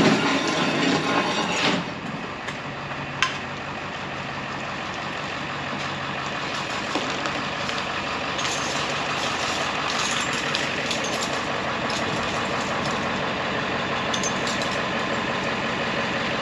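A vehicle engine running steadily, louder and rougher for the first couple of seconds, with a single click about three seconds in.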